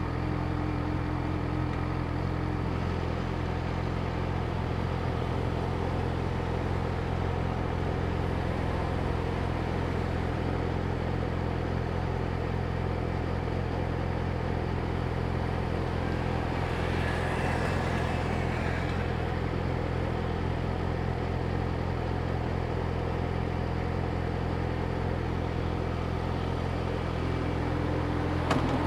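Yamaha YZF-R6's inline-four engine idling steadily. Another vehicle's noise swells and fades past about two thirds of the way through.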